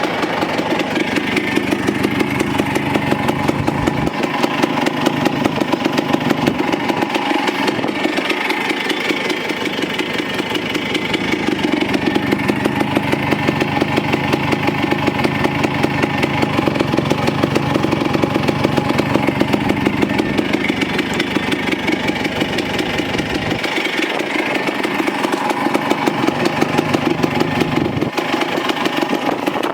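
1976 Kawasaki KE125's single-cylinder two-stroke engine idling steadily, its exhaust pulsing rapidly, with small rises and falls in speed.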